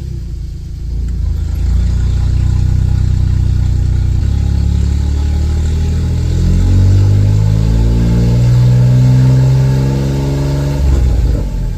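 A 2003 Smart Roadster's small turbocharged three-cylinder engine running loud through a home-made straight-through exhaust with the catalytic converter removed. It holds a steady note at first, then its pitch climbs slowly over several seconds as the engine pulls up through the revs, and drops back near the end.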